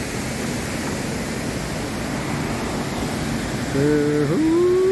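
Steady rushing roar of the Iguazu waterfalls. Near the end, a person's voice holds a long note, then slides up higher.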